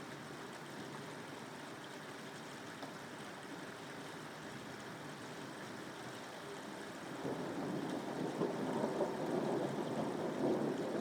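Steady rain falling, with a rumble of thunder that swells in about seven seconds in and keeps rolling, louder than the rain.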